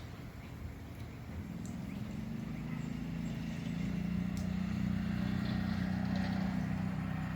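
Low, steady engine hum of a distant vehicle, growing louder over a few seconds and easing slightly near the end.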